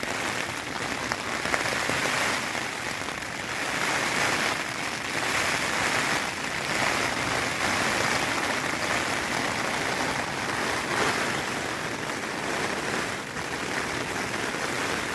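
Heavy rain pattering steadily on a tent, a dense hiss of drops that swells and eases a little every couple of seconds.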